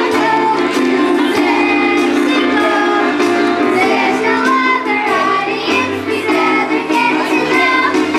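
Children's chorus singing a song with instrumental accompaniment that keeps a steady beat.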